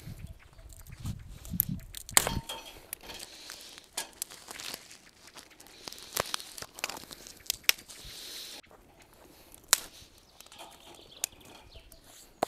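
Handling noises: crinkling and rustling, broken by sharp clicks and knocks of small objects being picked up and set down.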